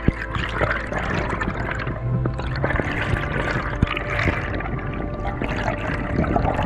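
Water sloshing and bubbling with scattered small clicks over a steady low hum.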